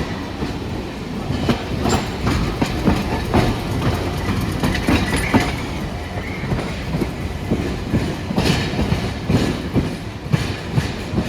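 Hiroshima Electric Railway streetcar running through the track, its wheels clattering with irregular knocks over a low rumble.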